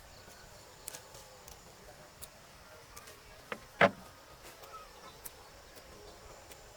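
A single sharp knock about four seconds in, with a few faint light clicks and ticks around it.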